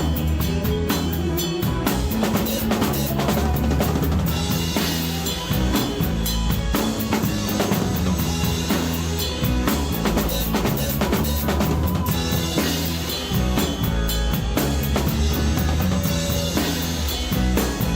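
Drum kit played live in a rock band, heard up close, keeping a steady beat under the rest of the band.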